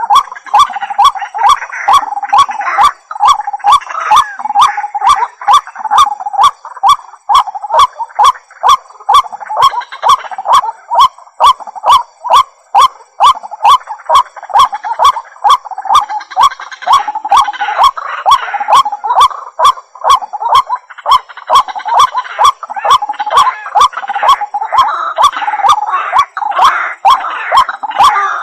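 White-breasted waterhen calling loudly and repetitively, a rhythmic string of nasal notes about twice a second, each beat with a sharp click.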